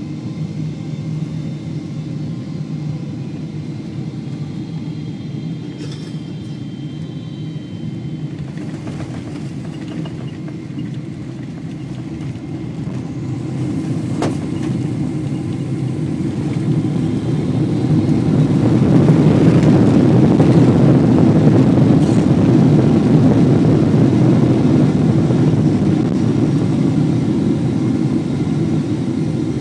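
Cabin noise inside a Boeing 777-300ER on landing: the steady low rumble of its GE90 engines and rushing air, growing clearly louder about halfway through and staying loud, with one sharp click partway.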